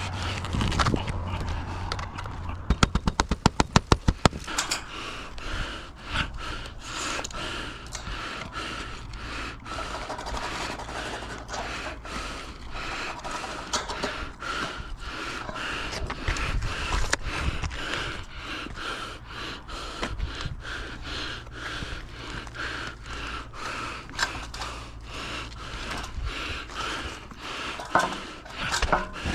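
Roofing work on metal panels: a fast run of sharp clicks about three seconds in, then irregular knocks, taps and scraping over a steady low hum.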